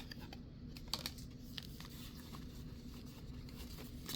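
Faint, scattered clicks and light rustling of trading cards and their packaging being handled.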